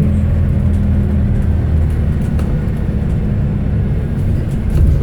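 Scania K320HB bus's five-cylinder engine running steadily, heard from on board as a low, even hum.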